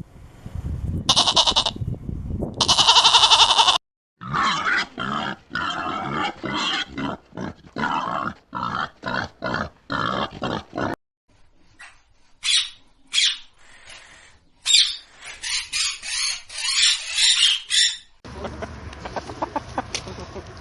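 A string of farm-animal calls. Two loud bleats come first, then a long run of rapid short pig grunts, then high-pitched squeals and squeaks.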